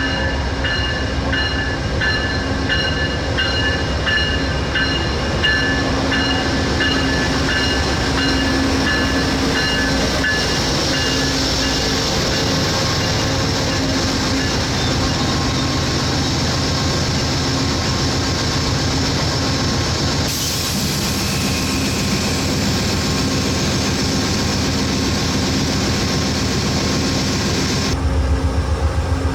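A train rolling past on the track, its rail cars clattering steadily. In the first third a ringing tone repeats about twice a second over the rumble.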